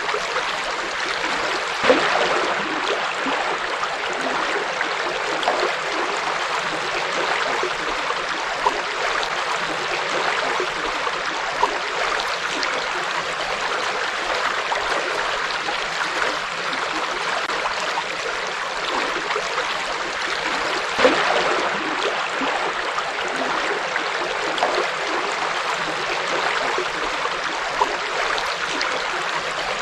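River water running over rocks: a steady rushing with small splashes and gurgles, a few of them standing out, about two seconds in and again about twenty-one seconds in.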